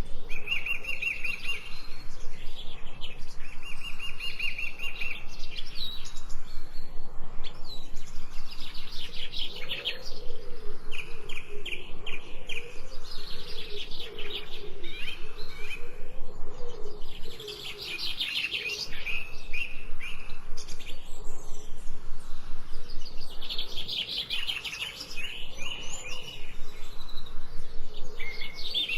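Several songbirds chirping and singing, with rapid repeated high chirps throughout and a lower wavering call in the middle.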